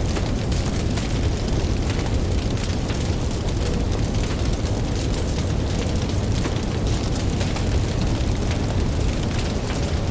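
Campfire crackling with a constant run of small pops, over a steady deep rumble of ocean waves.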